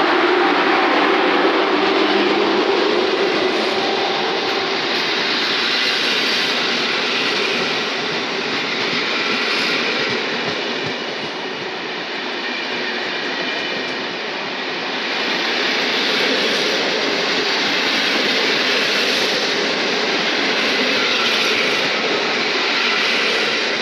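PKP Intercity passenger coaches hauled by an EP07 electric locomotive rolling past along a station platform: a steady rumble and hiss of wheels on rails. A low hum is heard in the first few seconds and then fades.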